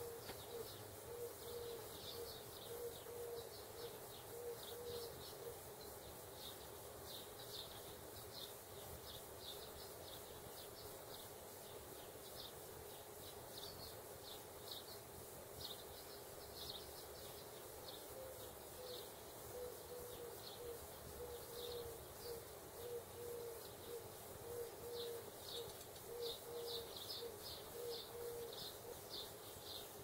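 Faint bird chirping: short high chirps repeating throughout, with a lower note pulsed in quick even beats for the first few seconds and again through much of the second half.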